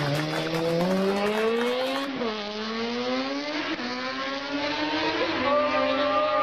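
Motorcycle engine revving hard, its pitch climbing steadily for about two seconds. After a cut, a motorcycle engine's revs dip and climb again several times as it is ridden.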